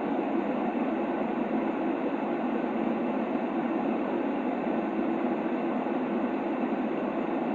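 Steady, unchanging white noise for baby sleep, a muffled hiss weighted toward the low and middle range, with no rhythm or change.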